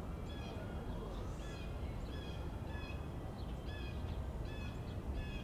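A bird calling over and over in short, evenly repeated notes, about three a second, over a steady low background rumble.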